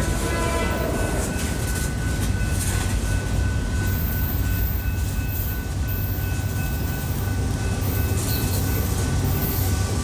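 A train rolling past close by: a steady, loud rumble of wheels on rail, with faint, thin, high tones held through it.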